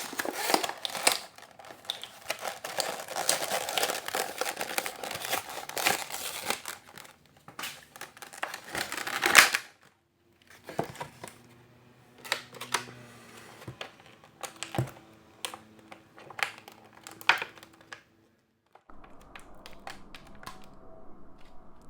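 Toy packaging being opened by hand: plastic and wrapping crinkling and tearing, with a sharp loud rip about nine seconds in. Then scattered clicks and taps as the pieces are handled.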